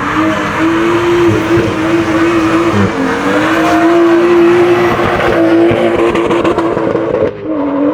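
A car engine held at high revs, its pitch wavering and dipping briefly near the end, over the squeal of spinning tires.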